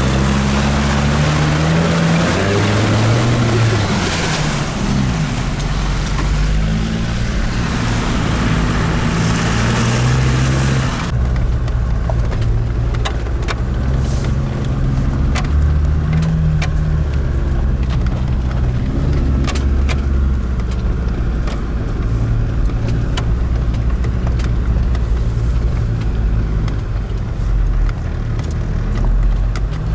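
Car engine rising and falling in revs as the vehicle drives over rough ground. A loud rushing hiss runs for about the first ten seconds and stops abruptly. After that come scattered knocks and rattles.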